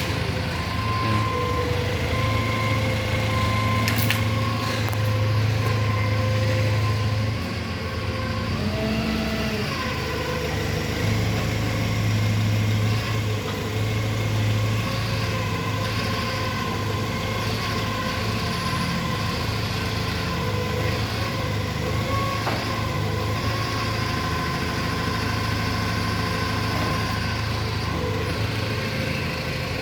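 Truck engine running steadily during unloading, with a steady whine above the engine hum; the pitch shifts briefly about nine seconds in.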